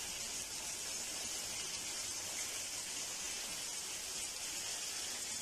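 Mutton liver pieces sizzling steadily in oil in a frying pan over medium heat: an even, high hiss.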